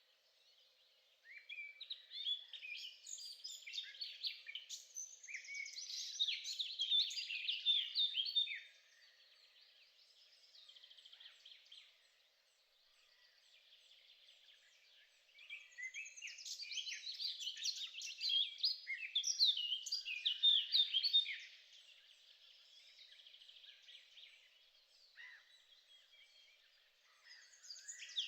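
A songbird singing two long bouts of rapid, varied chirping notes, each lasting about seven seconds, with quieter chirps in the gaps.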